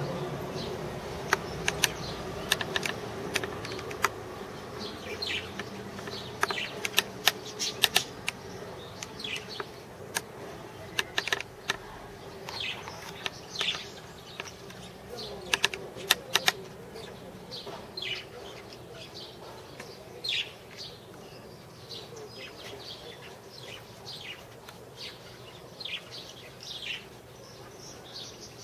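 Birds chirping repeatedly in short falling chirps, mixed with sharp clicks that come thickest in the first half. A low steady hum fades over the first few seconds.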